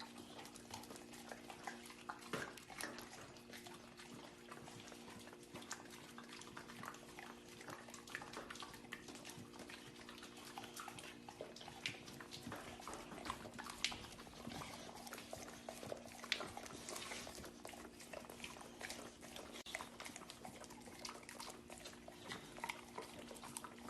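Faint dog sounds among many small irregular clicks, over a steady low hum.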